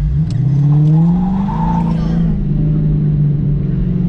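2014 Dodge Challenger R/T's 5.7-litre HEMI V8 heard from inside the cabin, revving up with a rising pitch for about a second and a half as the car accelerates, then running steadily.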